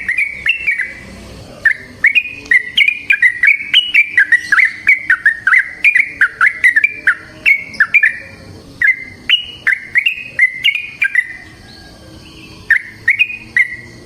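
Yellow-vented bulbul (trucukan) singing a long, fast run of short notes, about three to four a second, pausing briefly twice.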